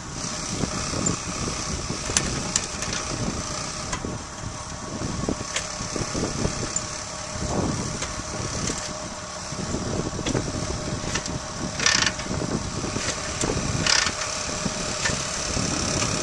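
Kickstarter of a 1941 Harley-Davidson EL Knucklehead being stroked to turn the cold engine over without firing: priming 'fuel kicks' with full choke. The engine turns over in uneven strokes with sharp clacks and knocks from the kick mechanism, and a steady hum behind.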